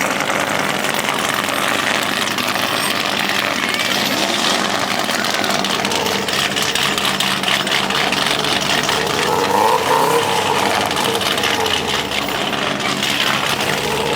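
A car engine idling steadily, with people talking in the background.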